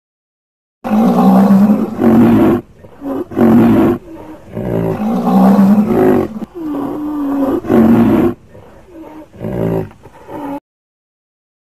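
A large animal calling loudly in a series of long, wavering calls with short breaks, beginning about a second in and cutting off abruptly near the end.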